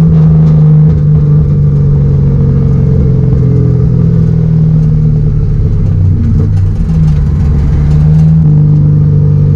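LS V8 engine of an S13 Silvia drift car running steadily at moderate revs, a loud steady drone whose note shifts slightly about a second in and again near the end.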